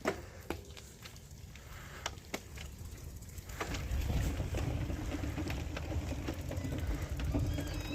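Riding sounds from a bicycle: a few sharp clicks and rattles, then from about halfway a louder steady low rumble with a faint hum, as of tyres rolling over the path. A few short chirps near the end.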